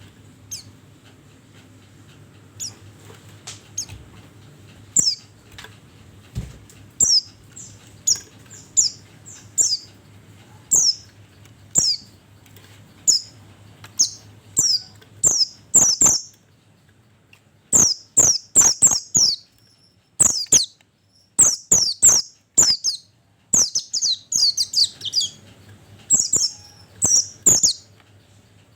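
White-eye (pleci) calling: sharp, high chirps, about one a second at first, then in quick bursts of several notes through the second half.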